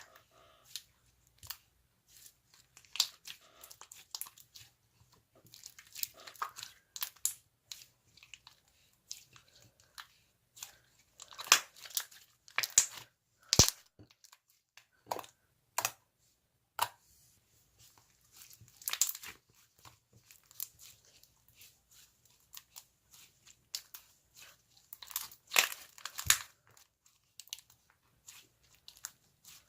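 Hands pressing, poking and stretching slime, making irregular sticky crackles, pops and squishes with short quiet pauses in between.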